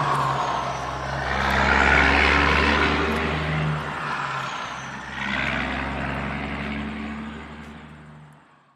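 Engine sound effect of a cartoon vehicle running steadily, swelling twice, then fading out near the end.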